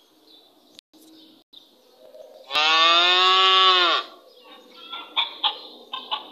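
A cow mooing once, a single call of about a second and a half that drops in pitch as it ends, followed by faint short chirps.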